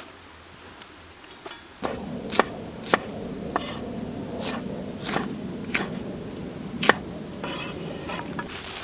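Utensils and cookware clinking and scraping during camp cooking: about seven sharp clinks over a steady lower rustle, starting about two seconds in.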